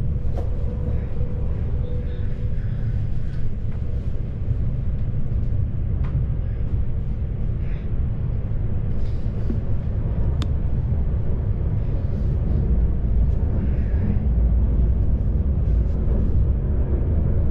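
Steady low rumble of an electric commuter train in motion, heard from inside the passenger car. Two short clicks come through it, about six and ten seconds in.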